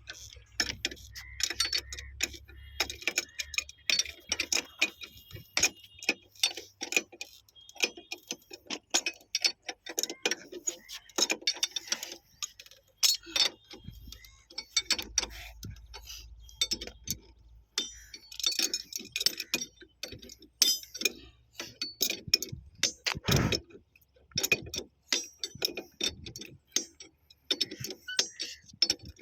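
Hand tools working on the metal fittings of a railway point machine: a string of irregular metallic clicks, clinks and knocks, some with a short ring.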